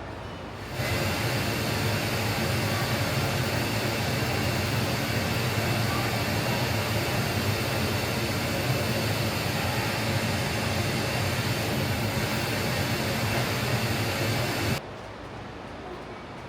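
Pink noise from a mixing console's signal generator playing through stage monitor wedges as a steady hiss, switched on about a second in and cut off suddenly near the end: a check that the monitors and their amp channels are passing signal.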